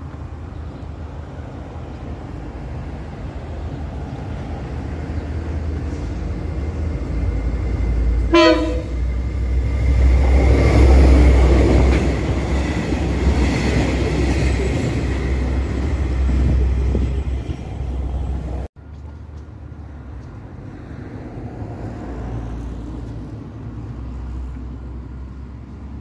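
A freight train approaching gives one short horn blast about a third of the way in, then runs close past with the loud noise of its wagons and wheels on the rails. The sound cuts off abruptly about two-thirds through, replaced by the quieter low rumble of another train approaching.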